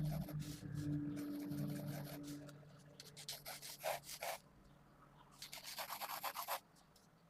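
Pentel GraphGear 500 mechanical pencil with 0.5 mm 2B lead scratching across paper in quick sketching strokes. The strokes come in three runs, pausing briefly about two and a half seconds in and again at about four and a half seconds.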